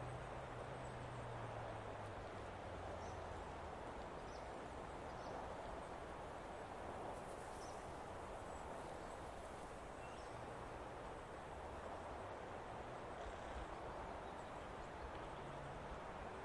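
Steady outdoor forest ambience: an even background hiss with a few faint, short bird chirps scattered through it and a low hum near the start and again near the end.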